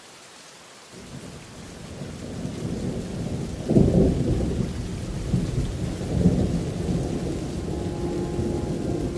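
Rain with rolling thunder: a low rumble swells from about a second in, with its loudest crack about four seconds in, then keeps rumbling under the rain. Held musical notes come in near the end.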